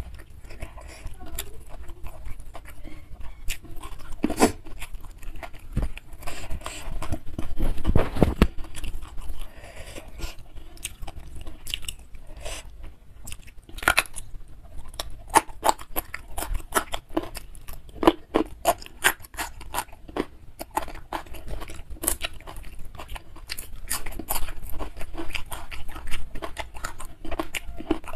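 Close-miked eating by hand: chewing of rice and side dishes with wet mouth clicks, smacks and crunches, densest about six to eight seconds in, and fingers gathering rice from the banana leaf.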